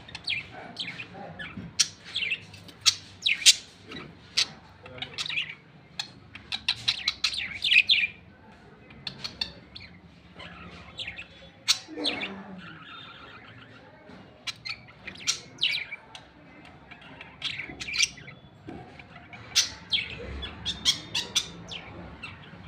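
Pet lovebirds chirping and squawking: sharp, high chirps that come in quick, irregular clusters.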